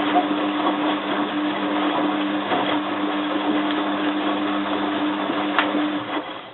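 Bosch WFF2000 front-loading washing machine working through its rinse: a steady hum with rushing water behind it that stops about six seconds in.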